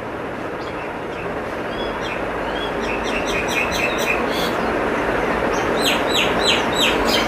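Small birds chirping, a few scattered calls and then a fast run of short descending chirps near the end, over a steady rush of outdoor background noise.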